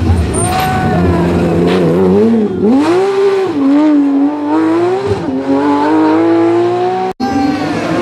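Porsche 911 GT3 rally car's flat-six engine at full race pace, revving up and down through the gears: the pitch drops and climbs again about two and a half seconds in, then rises steadily under acceleration. The sound cuts out for an instant near the end and comes straight back.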